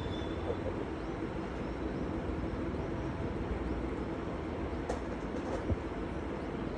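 Steady low rumble and hiss of outdoor background noise, with a few faint clicks about five seconds in.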